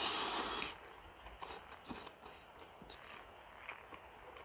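A person biting into a boiled lamb rib, with a loud sucking, tearing noise for about a second at the start as the meat is pulled off the bone into the mouth. This is followed by quiet chewing with small wet mouth clicks.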